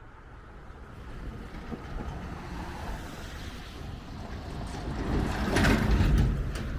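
A road vehicle passing by: its tyre and engine noise grows over several seconds, is loudest near the end, then fades.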